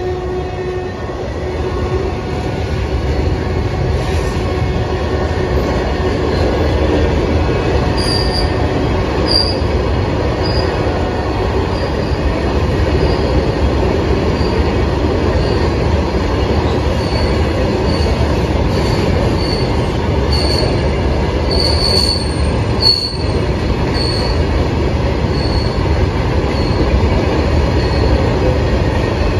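An Indian Railways freight train of open-top steel wagons rolling past at speed, its wheels rumbling steadily on the rails. From about a quarter of the way in, short high wheel squeals come again and again, and there is one sharp knock about two-thirds of the way through.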